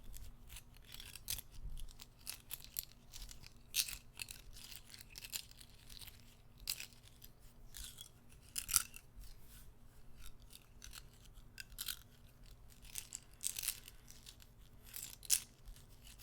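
Guitar picks handled close to the microphone: many small, irregular clicks and light taps.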